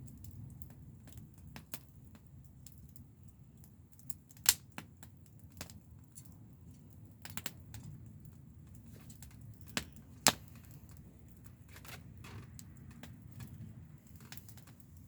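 Wood fire crackling: irregular small clicks and snaps over a low rumble, with two loud pops, one about four seconds in and another near ten seconds.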